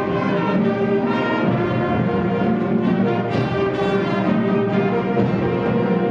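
8th-grade concert band playing, with brass carrying sustained chords and a few percussion strikes.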